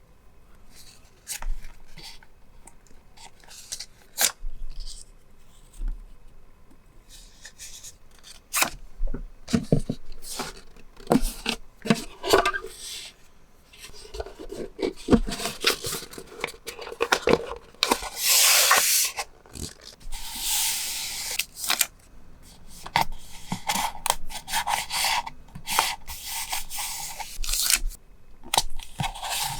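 Paper and stationery being handled at close range: sharp taps and crinkles, then longer stretches of paper rubbing and tearing in the second half.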